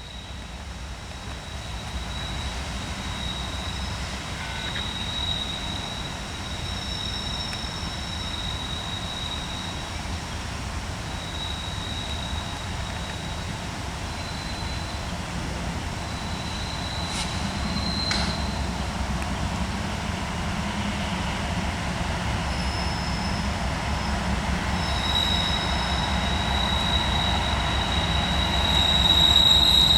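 Norfolk Southern train rolling with a low rumble and intermittent high, drawn-out wheel squeals, growing steadily louder as it nears.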